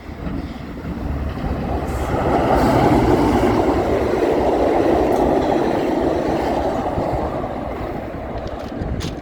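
A Metrolink commuter train passing at speed: the rush and rumble of its wheels on the rails builds from about two seconds in, is loudest around three seconds, and fades away over the last few seconds, with wind buffeting the microphone.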